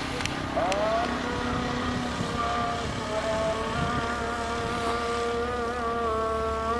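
Passenger train coaches rolling round a curve into a station, with a couple of sharp clicks near the start. From about a second in, the wheels squeal in several steady, slightly wavering high tones over the rumble of the train.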